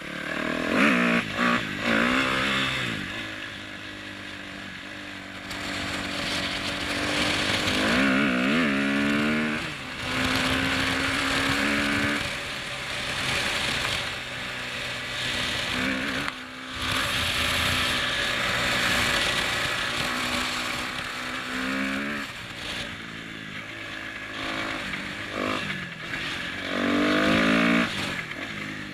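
2010 Kawasaki KX250F's single-cylinder four-stroke engine under way, revving up sharply several times and holding a steady pitch in between.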